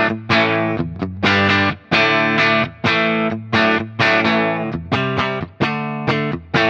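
Electric guitar played through a Crazy Tube Circuits Stardust V3, a blackface-amp-style drive pedal, into the input of a Marshall JTM45 amp. It plays a rhythm of short, driven chord stabs, about a dozen, each choked off before the next.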